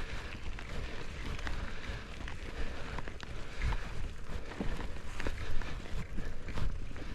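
Mountain bike riding over a rough trail: wind rumbling on the microphone, with scattered clicks and rattles from the tyres and bike.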